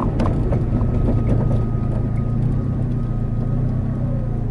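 Car driving on rough road, heard from inside the cabin: a steady engine and road drone with several light knocks from the suspension. The knocks come from a completely worn-out sway bar bushing banging around.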